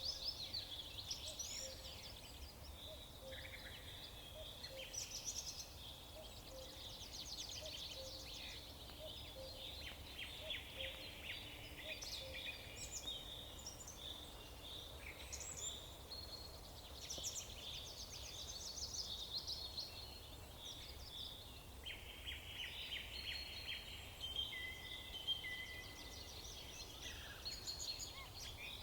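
Several songbirds chirping and trilling at once, their calls overlapping in quick high-pitched bursts and rapid trills, over a faint low steady rumble.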